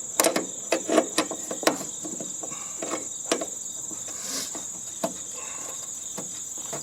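Sharp clicks and knocks of parts being handled as a heating and air-conditioning unit is taken apart, several in quick succession in the first two seconds and then a few scattered ones. A steady high-pitched cricket trill runs underneath.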